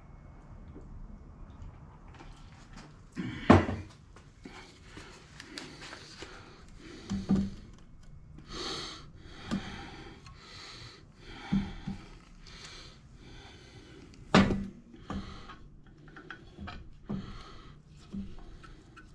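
Metal small-engine parts being handled on a workbench: two sharp clunks, about three and a half seconds in and near fourteen seconds, with lighter knocks between and a run of short rubbing sounds about once a second in the middle.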